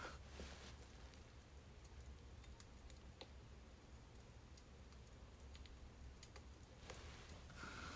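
Faint crackling of burning birch wood: sparse small pops and ticks over a low steady hum, with a short swish at the very start and again near the end.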